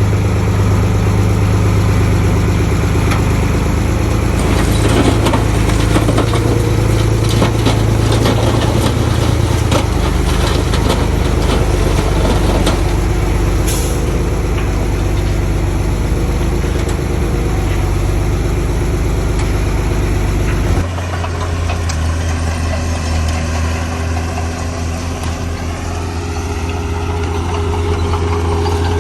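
Heavy diesel earthmoving machinery running steadily, with a spell of rattling and clattering in the middle. About two-thirds of the way through, the engine sound changes abruptly to a different machine.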